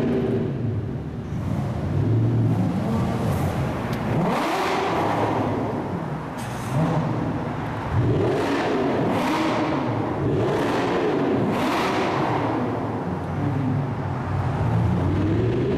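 Porsche 981 flat-six through an Armytrix valved sports exhaust, revved up and down over and over, its pitch climbing and dropping in repeated sweeps.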